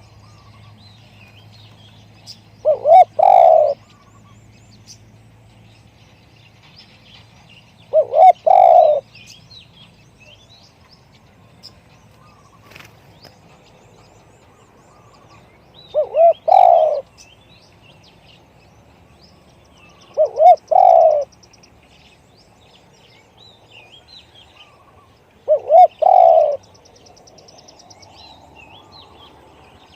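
Spotted dove cooing: five loud phrases, each about a second long, a few seconds apart, with other small birds chirping faintly in the background.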